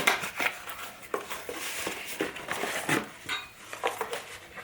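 Irregular light clicks and knocks of hard parts being handled: the power supply and its mains cord being picked up and set out on the bench.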